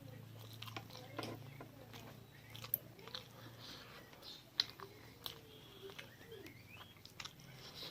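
Close-up eating sounds: a person chewing and biting food, with a few sharp crunchy clicks spread through, over a low steady hum.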